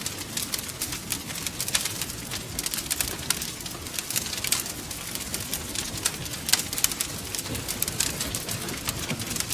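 Wood fire crackling: frequent irregular sharp pops and snaps over a low, steady rumble.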